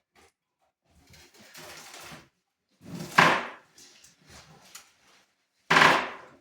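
Two loud bangs about two and a half seconds apart, with quieter scraping and rustling before them: wooden pieces being knocked and handled while a room is torn out for renovation.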